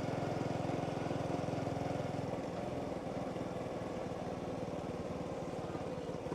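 Motorbike engine running steadily while being ridden along a road, easing off a little about two seconds in.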